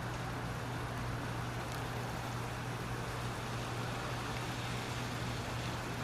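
Steady rain hiss over a constant low hum.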